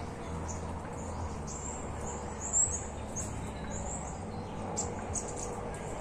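Small birds chirping: a string of short, high chirps, the loudest about two and a half seconds in.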